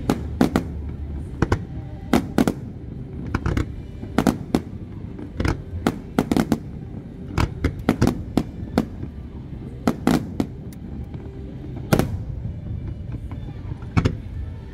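Aerial firework shells bursting, an irregular run of sharp bangs throughout, many coming in quick pairs and clusters.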